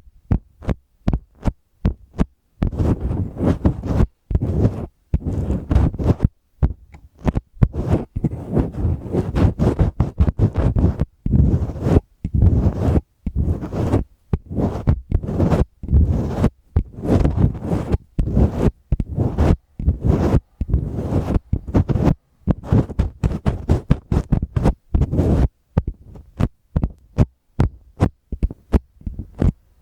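Scratching directly on the microphone of a Tascam recorder: quick, irregular scratching strokes in runs with short breaks, heavy in the low end.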